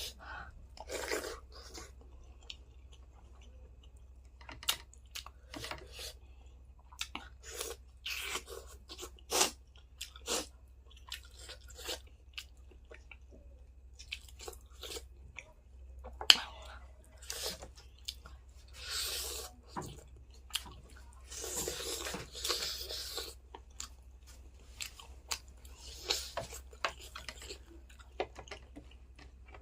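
A person chewing and crunching food close to the microphone, with many short sharp clicks and smacks and a few longer crunchy stretches.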